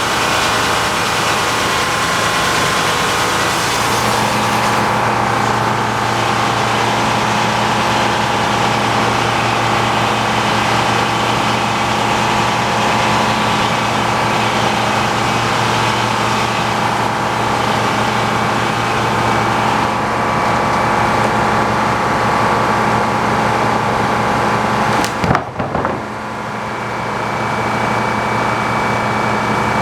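Tractor engine running steadily, powering a sawmill, with machinery noise and a steady hum over it. About 25 seconds in comes a single sharp knock, and the noise drops briefly before building back up.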